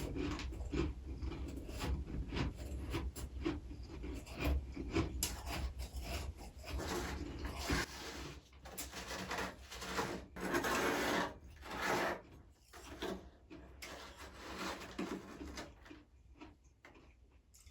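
Crunchy, rasping sounds of freezer frost being scraped up and bitten, a dense run of short strokes that grows quieter near the end.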